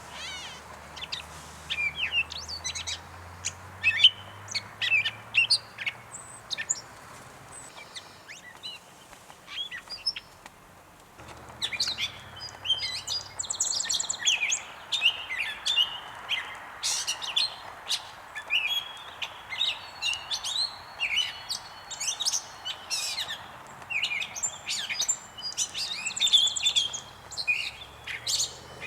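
Gray catbird singing: a long, jumbled run of short, varied notes, with a lull of a few seconds about a third of the way in.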